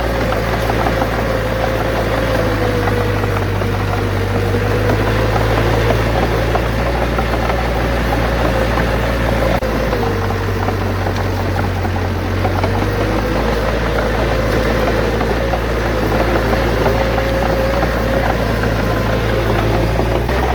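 Bulldozer's diesel engine running steadily, with a whine running through it that sags slightly in pitch twice.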